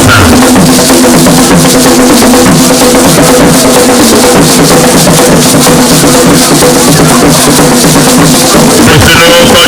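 Loud drum-led music for a traditional dance, with repeated drum strokes and a steady pitched part.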